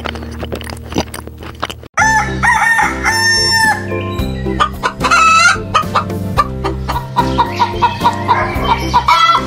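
Chickens clucking and crowing over background music, starting about two seconds in after a brief break in the sound.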